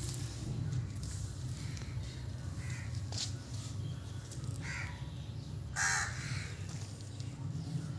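A bird calling outdoors in a few short calls, the loudest about six seconds in, over a steady low rumble.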